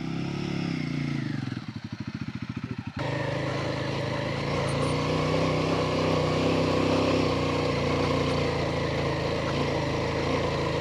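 Motorcycle engine revving up and back down, then pulsing slowly at low revs. About three seconds in it changes abruptly to a steady, louder run that lasts to the end.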